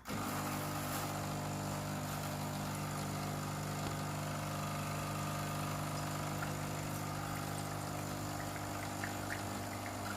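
Quick Mill Rubino E61 heat-exchanger espresso machine's vibratory pump switching on and running a steady hum, pushing hot water through the group head and empty portafilter in a blind shot to warm it. A few faint clicks near the end.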